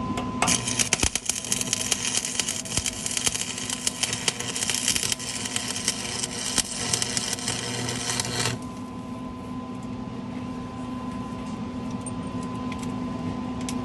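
Stick welding arc crackling and sizzling for about eight seconds, then cutting off suddenly, with a steady electrical hum underneath.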